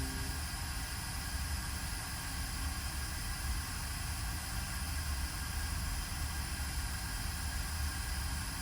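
Steady hiss with a low electrical hum and fixed high whining tones from running repair-bench equipment, unchanging throughout.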